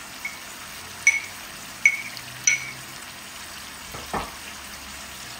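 Chicken curry sizzling in a large aluminium pot on a gas hob, a steady hiss with a few sharp ticks and pops in the first couple of seconds. A single low knock sounds about four seconds in.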